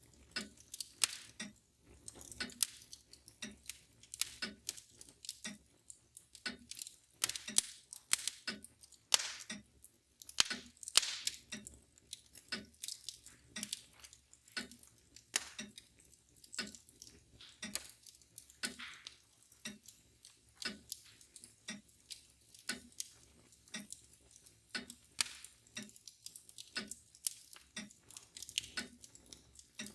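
Fire crackling in a fireplace, with irregular pops and snaps of varying loudness, over the steady ticking of a mantel clock.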